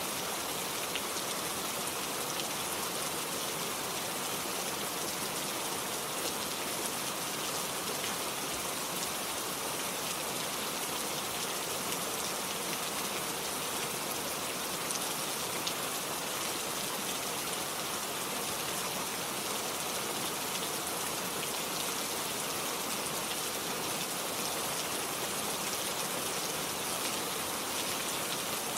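Steady rainfall, a dense even patter of many drops with fine individual drop ticks, without let-up.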